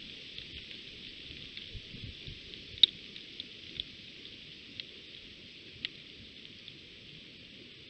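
Steady rain hiss with scattered raindrops ticking close by, the sharpest tick about three seconds in.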